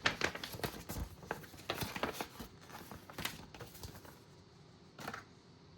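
Hands handling parts and packaging: a run of irregular light clicks, scratches and rustles that stops about four and a half seconds in, with one more short rustle about five seconds in.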